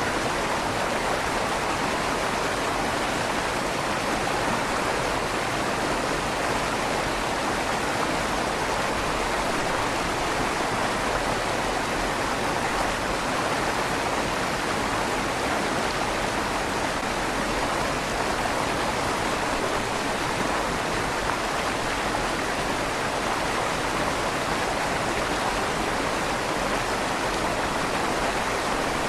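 River water flowing steadily beneath a stone bridge, an even rushing with a slight echo off the inside of the bridge's tunnel.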